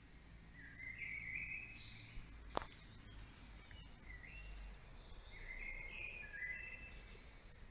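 Songbirds singing in the early morning: short phrases of stepped whistled notes, a first phrase about a second in and more a few seconds later, over a faint low background rumble. A single sharp click cuts through about two and a half seconds in.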